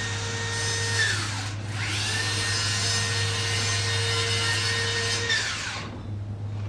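A small high-speed electric motor running with a steady whine and hiss. It winds down about a second and a half in, then spins up again about two seconds in, runs about four seconds and winds down. A steady low hum lies underneath.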